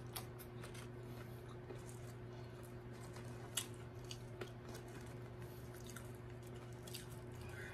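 Quiet, soft chewing and wet mouth sounds of a person eating french fries, with scattered faint clicks, over a steady low hum.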